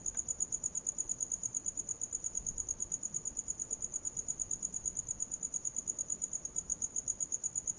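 Crickets chirping: a steady, high-pitched pulsing trill of about ten pulses a second.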